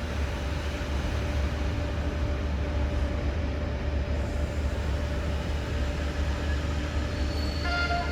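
Passenger train arriving at a station, a steady low rumble running throughout. Near the end a short horn-like tone begins.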